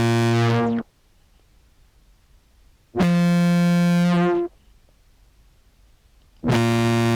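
Contrabass clarinet samples played through an envelope filter and fuzz pedal: separate held low notes rich in overtones, one ending about a second in, a higher one a few seconds in, and another starting near the end, each cut off cleanly.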